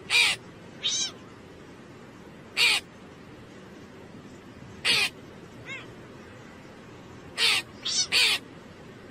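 Short, harsh animal calls, about eight of them, each a fraction of a second long. Most are single and spaced a few seconds apart; three come in quick succession near the end. A steady background hiss runs underneath.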